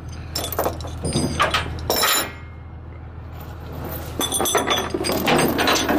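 Metallic clinking and rattling in two spells, over the steady low hum of an idling diesel engine.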